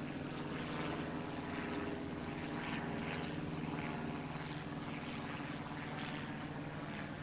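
Propeller airplane's engine droning steadily.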